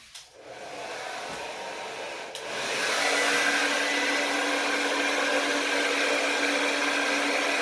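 Handheld blow dryer running steadily, blowing over wet poured acrylic paint to spread and level it. It comes up at the start and gets clearly louder about two and a half seconds in.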